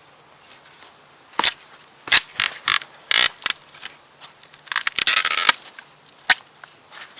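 Firewood being worked and handled: an irregular run of sharp cracks and knocks, with a longer scraping, crunching stretch about five seconds in.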